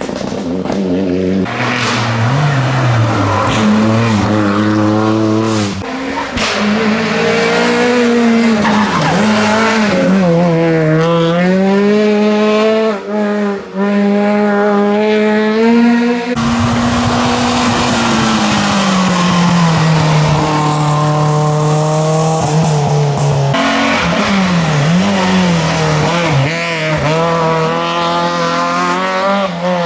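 Rally car engines driven hard, revving up and dropping back over and over through gear changes, with tyre squeal. The engine note changes abruptly several times as different cars take over.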